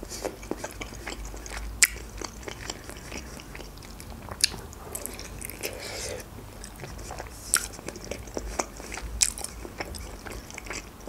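Close-up chewing of a boiled Georgian khinkali dumpling: wet mouth sounds with irregular sharp clicks, a few standing out louder.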